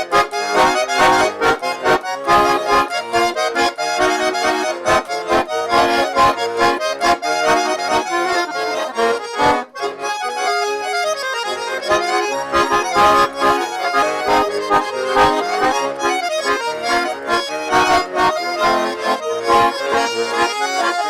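Russian garmon (button accordion) playing a lively folk polka: a quick melody over a steady beat of bass and chords.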